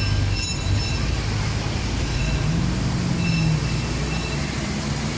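Heavy vehicle engine running with a low, steady rumble; a deeper engine tone swells in the middle and then fades.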